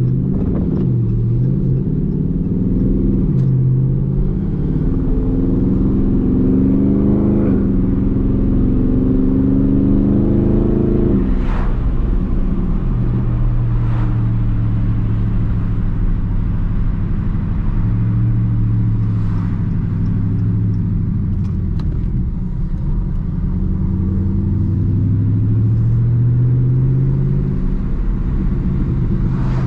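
2021 Dodge Charger Daytona 392's 6.4-litre HEMI V8 under way, its pitch rising as the car accelerates, then dropping suddenly at an upshift about eleven seconds in. It then runs steadily at cruising speed, the pitch swelling and easing a little with the throttle.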